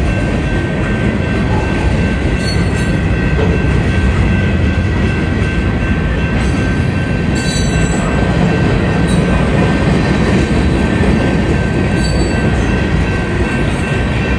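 Freight train cars rolling past at a grade crossing: a steady loud rumble of steel wheels on rail, with a thin steady high whine and a few brief hissy bursts.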